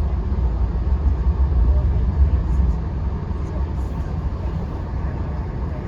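Passenger train running at speed, heard from on board: a steady deep rumble of wheels on rail with a constant hiss of running noise.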